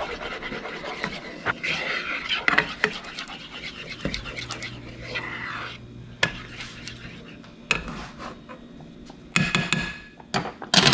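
A spoon or utensil stirring and scraping in a pot of grits, with scattered clinks and clatters of kitchen utensils.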